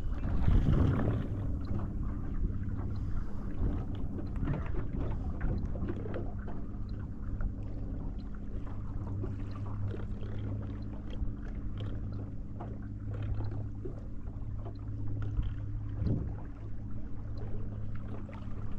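Boat motor running at a steady low hum, with scattered light ticks over it.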